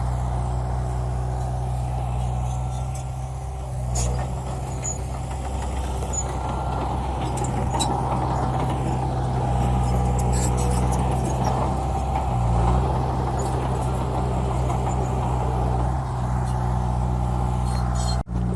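Diesel engine of a heavy dump truck running with a steady low drone, dipping briefly partway through. The sound cuts out for an instant near the end.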